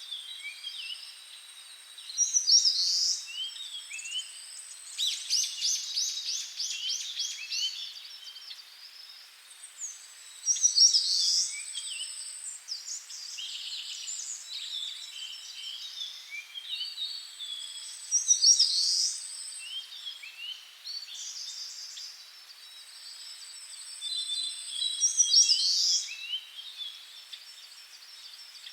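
Birds singing in woodland: a chorus of chirps, with one loud song phrase repeating about every eight seconds, each opening with a long, thin, high whistle.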